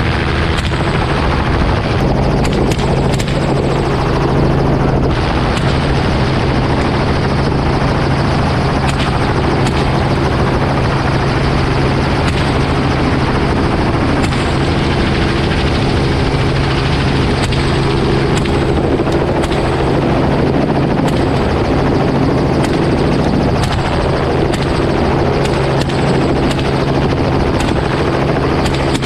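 Helicopter running steadily in flight, with a few sharp cracks of rifle fire scattered through.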